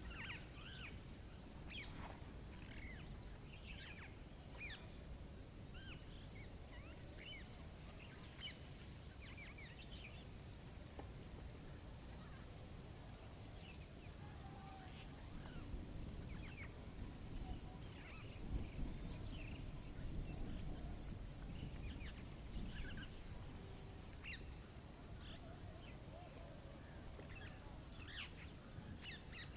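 Many birds chirping and calling over a low rumbling background noise, which grows louder in the middle. Just past the middle, a fast, very high trill runs for about four seconds.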